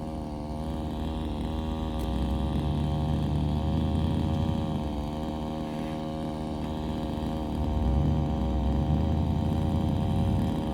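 A low-pitched engine runs steadily, getting louder about two seconds in and again near the end.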